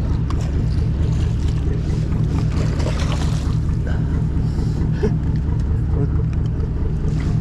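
Fishing boat's engine idling with a steady low hum, with a few light knocks over it.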